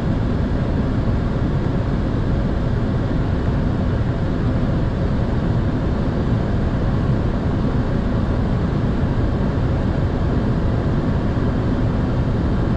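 Steady cabin noise on the flight deck of a Boeing 747-400 on final approach: air rushing past the cockpit with the engines' hum beneath it, an even, unchanging rumble with most of its weight low down.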